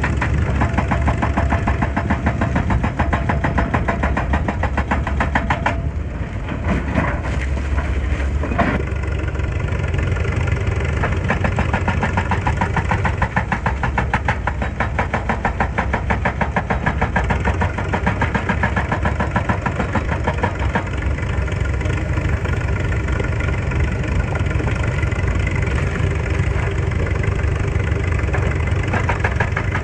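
Excavator's diesel engine running steadily, with an even pulsing beat. A brief dip about six seconds in is followed by a couple of sharp clanks.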